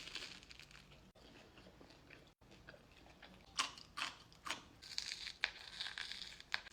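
A person biting and chewing a bite of smoked salmon yukola with avocado, close to the microphone: quiet at first, then a series of crisp, sharp crunches from about halfway through.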